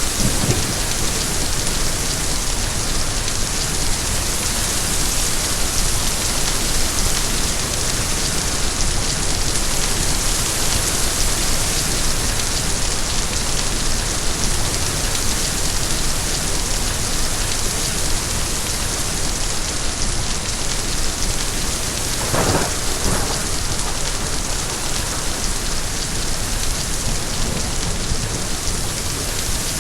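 Steady heavy rain, a dense even hiss, with one short, lower-pitched sound about two-thirds of the way through.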